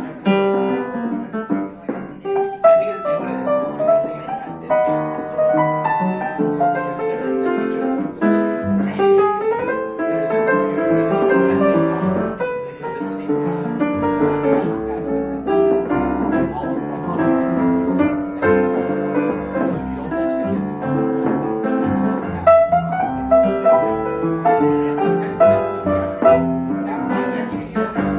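Jazz piano playing live in a small band, with bar patrons chatting in the background.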